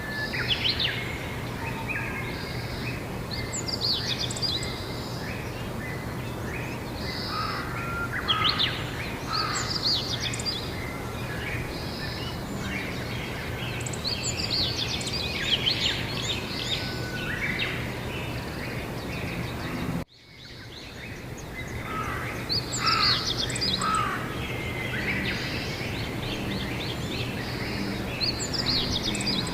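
Songbirds singing, with varied chirps and trills that recur every few seconds, over a steady low outdoor hum. About twenty seconds in the sound drops out abruptly and fades back in.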